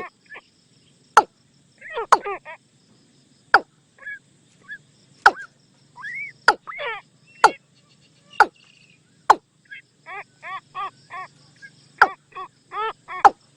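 Watercock decoy calls: sharp loud notes roughly once a second, interleaved with quick series of short, ringing chattering notes. The recording is played to lure watercocks in.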